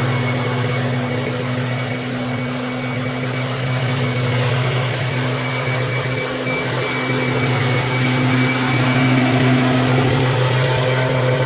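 Husqvarna gas-powered backpack leaf blower running steadily at a constant throttle: an even engine hum with a thin high fan whine over it.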